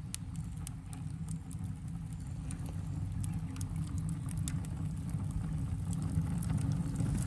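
Wood fire burning in a cyclone-draft fire stove: a low steady roar with scattered sharp crackles.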